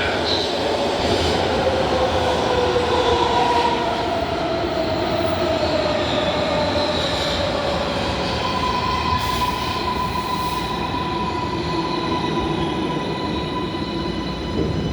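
MARTA rapid-transit train pulling into a station: a whine that falls in pitch as it slows over the first several seconds, over a steady rumble, then a steady high tone.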